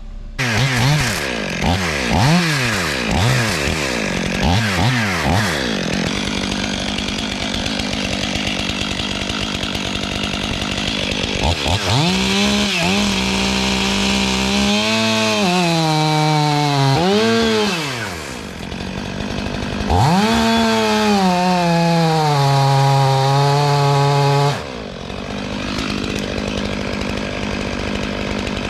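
Stihl 500i fuel-injected two-stroke chainsaw blipped several times in quick succession, then held at full throttle in two long stretches, its pitch sagging and recovering as the chain bites into wood, before dropping back to idle near the end.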